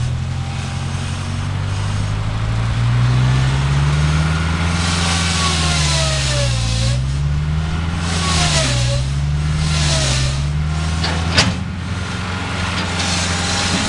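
Gehl 4400 skid steer engine running hard, its pitch sagging and recovering several times as it comes under load, with whines gliding downward now and then and one sharp metallic clank about eleven seconds in.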